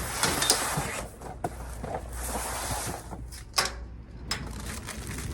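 Stored household items being shifted by hand: two stretches of scraping and a few sharp knocks.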